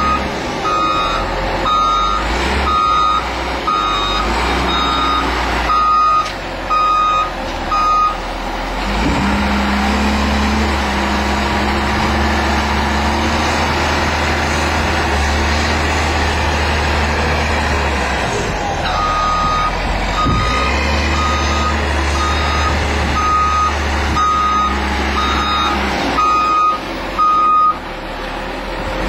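A heavy vehicle's reversing alarm beeping about once a second over its running engine. The beeping stops for about ten seconds while the engine runs on steadily, then starts again.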